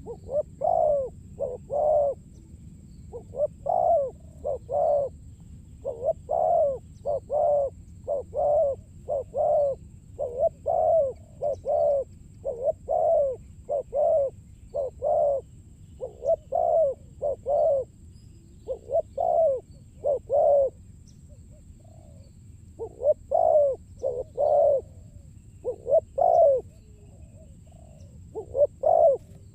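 Spotted dove (terkukur) cooing: a long run of low, rounded coo notes in short repeated phrases, about one to two notes a second, with a short pause about two-thirds of the way through.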